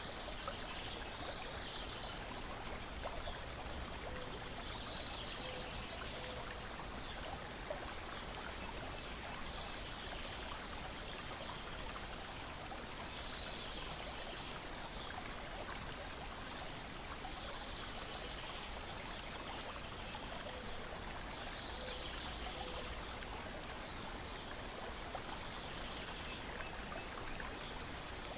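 Small lake waves lapping against a shore and deck: steady trickling water with a soft splash about every four seconds.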